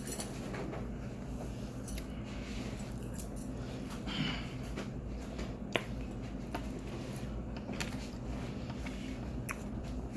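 Scattered crisp clicks and crunches of someone biting and chewing chunks of cornstarch, over a steady low hum.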